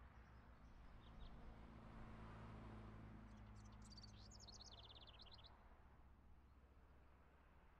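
Faint outdoor ambience with a low steady hum, and a small bird chirping a quick run of high notes about three to five seconds in; it fades away toward the end.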